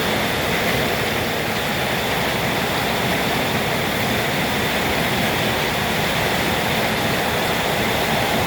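Heavy rain pouring steadily in a storm with strong wind, an even, unbroken hiss.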